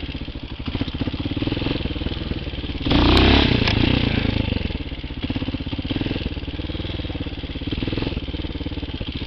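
Single-cylinder engine of a TaoMotor TBR7 enduro dirt bike running at low speed with a steady chug. About three seconds in it revs up sharply as the throttle is opened, then drops back to a low run.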